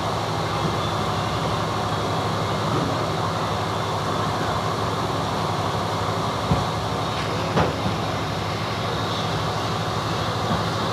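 MEMU electric train running along the track, heard from on board: a steady rumble of wheels on rails, with two sharp knocks a second apart a little past the middle.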